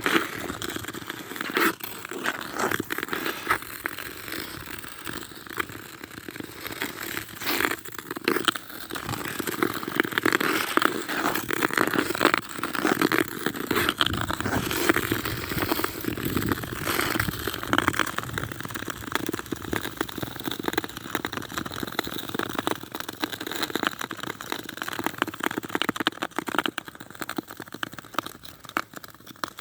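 Footsteps crunching in snow, with an irregular run of crackles and scrapes.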